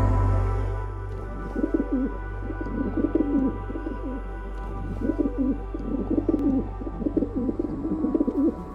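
A bird cooing in repeated low phrases, about six bouts, over steady background music.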